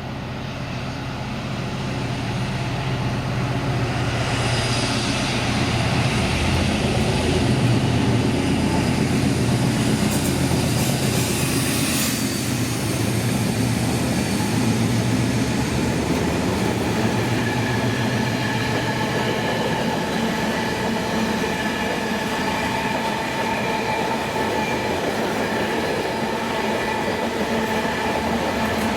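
A train running past on the rails. Its noise builds over the first several seconds and then holds steady, with a low hum under the rolling wheel noise and thin high wheel squeal in the second half.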